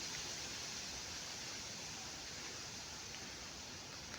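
Steady faint hiss that slowly fades, from a campfire in which four aerosol cans and a battery are burning.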